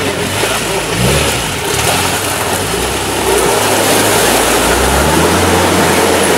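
UAZ off-roader's overhauled ZMZ-409 four-cylinder petrol engine pulling under load over rough ground. The revs rise about a second in and climb again in the second half.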